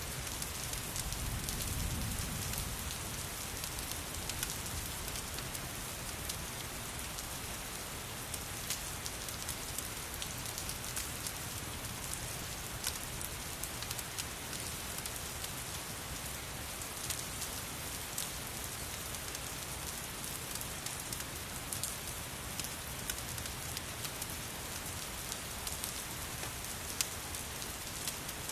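Steady rain, an even hiss, mixed with scattered sharp crackles and pops from a wood fire. A brief low rumble sounds about two seconds in.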